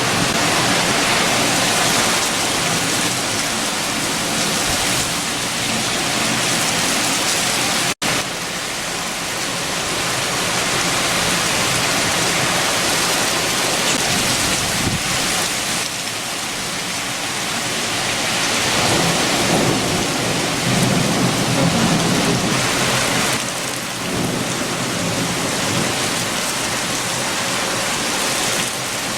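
Heavy rain with strong wind: a dense, steady hiss that swells and eases in gusts, with a deeper rumble swelling about twenty seconds in. The sound cuts out for an instant about eight seconds in.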